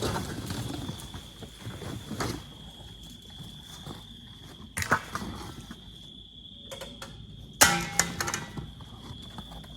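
A steady high-pitched insect drone over a low rumble, broken by a few knocks and rattles, the loudest about two seconds before the end.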